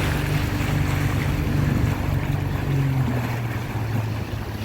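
Tour boat's engine running steadily under way, with wind and rushing water noise.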